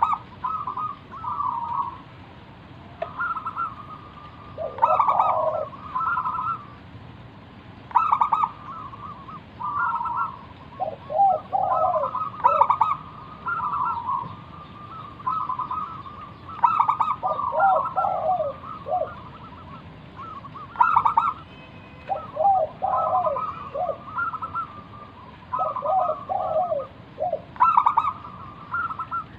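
Zebra dove (perkutut) singing its full cooing song, a phrase every two to three seconds. Each phrase is a quick run of short notes followed by lower rolling coos.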